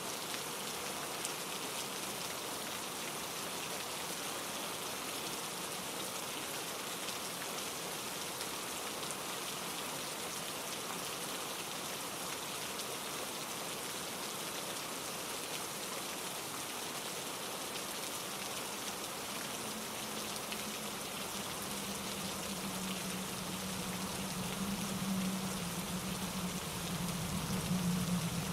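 Steady rain falling. A low steady hum joins it about two-thirds of the way through and grows louder near the end.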